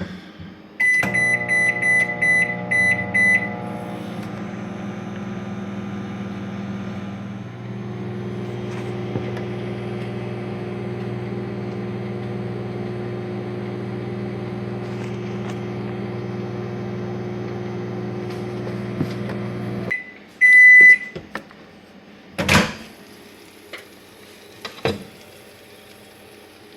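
Microwave oven keypad beeping several times in quick succession, then the microwave running with a steady hum. About twenty seconds in the hum stops abruptly with a loud beep, followed by a sharp clunk and a lighter knock.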